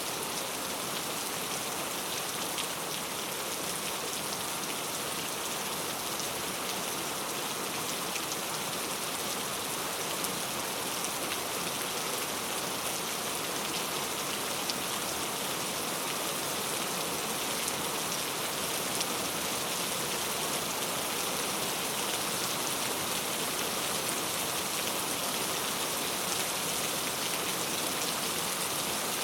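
Steady heavy rain falling, an even hiss of many drops with fine patter throughout.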